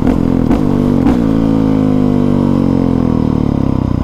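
2020 Honda CRF450R's single-cylinder four-stroke engine running under way. Its note breaks briefly a few times in the first second, then holds and slowly drops in pitch toward the end.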